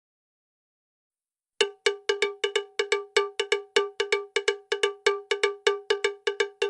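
A metal bell with a cowbell-like tone, struck rapidly and evenly about five or six times a second, starting about a second and a half in after silence.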